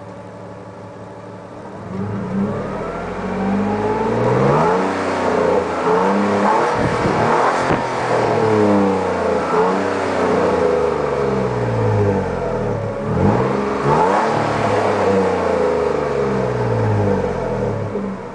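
2006 Nissan Frontier engine through its stock exhaust, heard at the tailpipe. It idles, then is revved up and down repeatedly for about fifteen seconds, the pitch rising and falling with each rev, and settles back to idle near the end.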